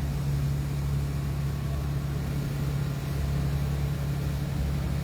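Boat engine running at a steady pace under way, a constant low drone with no change in pitch.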